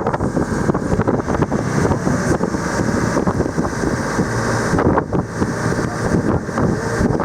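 Wind buffeting the microphone aboard a motorboat under way: a loud, steady rush that covers the engine and water noise.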